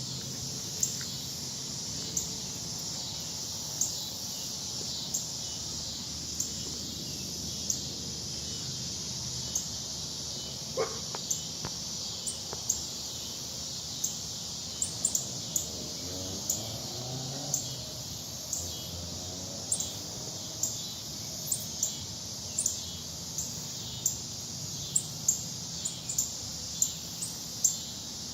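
Short, sharp, high bird chirps repeated about once a second, coming faster near the end, over a steady high insect buzz.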